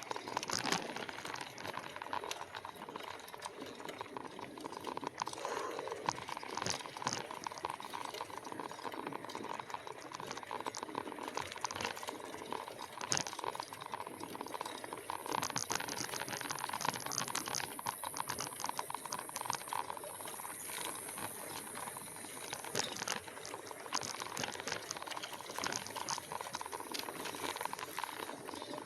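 E-bike riding over a rough trail: a steady crackling, rattling noise of tyres on the ground and air rushing past the microphone, with many small clicks.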